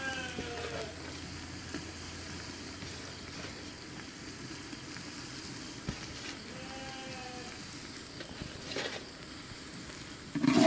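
Okra stir-fry sizzling steadily in hot oil in a cooking pot as grated coconut is sprinkled in. A faint falling tone sounds twice in the background, near the start and again about six seconds in.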